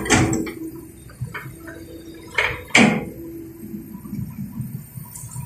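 Excavator engine running with a steady hum, with four sharp knocks: two at the very start and two more about two and a half seconds in.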